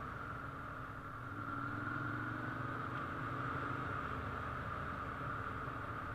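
Ducati motorcycle engine running at idle, a steady low hum that rises a little in pitch about a second and a half in, over a constant hiss.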